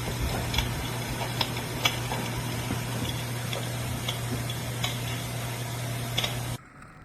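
Shinic electric fireplace heater running: a steady fan hum and hiss, with its recorded fire-crackling effect playing through a tinny speaker as irregular clicks and pops. Everything cuts off suddenly about six and a half seconds in.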